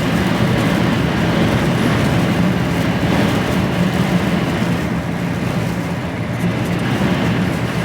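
HGV lorry's diesel engine running at a steady low drone while driving, with road and wind noise, heard from inside the cab.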